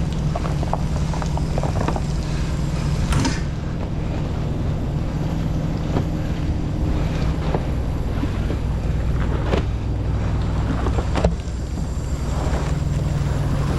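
A large engine running steadily with a low drone, with scattered light clicks and knocks over it.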